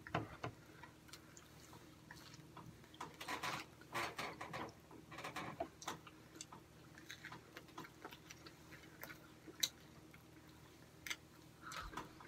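Quiet eating sounds from chewing chicken nuggets: scattered soft clicks and short bursts of mouth noise, busiest a few seconds in, with one sharper click near the end.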